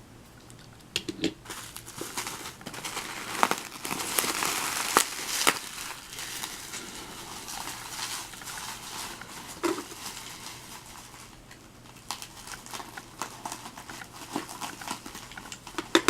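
Packaging crinkling and rustling as it is handled, with irregular sharp clicks and crackles.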